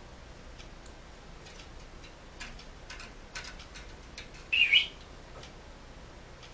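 Pet talking bird giving one short, loud whistle with a wavering pitch about four and a half seconds in, after a run of soft scattered clicks.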